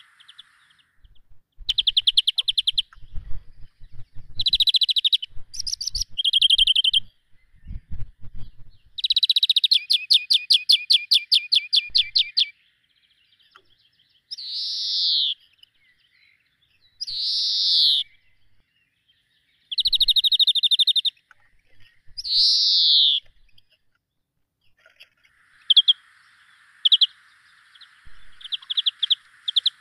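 Birds calling: a series of rapid, buzzy trills and several loud downward-sweeping whistled calls, each lasting a second or two, with short pauses between them.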